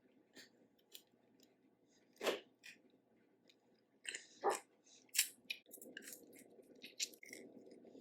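Close-miked eating of a crawfish boil: chewing with scattered short crunches and clicks. The loudest come about two seconds in and again around four and a half seconds.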